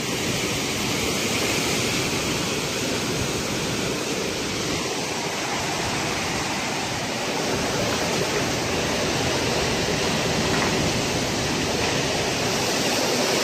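Storm wind blowing hard: a steady, loud hiss that does not let up.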